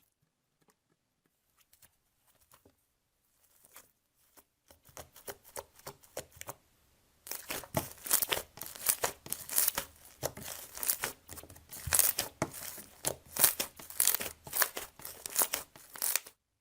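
Slime being squished and stretched by hand, making crackling, clicking sounds. The crackles begin faint and sparse, turn loud and dense about seven seconds in, and stop abruptly just before the end.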